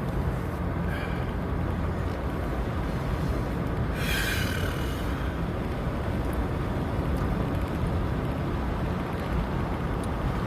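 Steady road and wind noise inside a moving car with the windows down, with a brief hiss about four seconds in.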